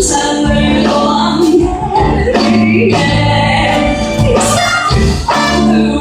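Live band music: a song played by the ensemble with a singer's voice over it, steady and loud.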